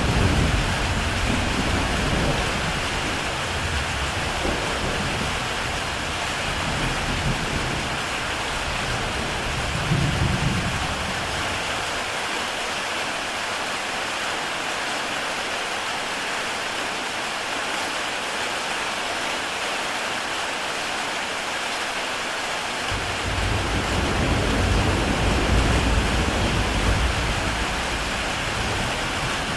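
Heavy rain pouring steadily onto a tile roof. Deep low rumbles under the rain come and go: through roughly the first twelve seconds, swelling about ten seconds in, then again from about 23 to 28 seconds in.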